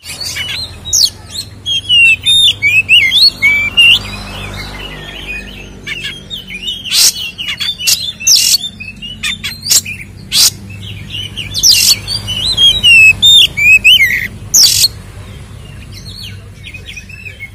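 Oriental magpie-robin (kacer) in full, agitated song: fast chattering phrases mixed with loud, sharp whistles that sweep up and down, over a steady low hum.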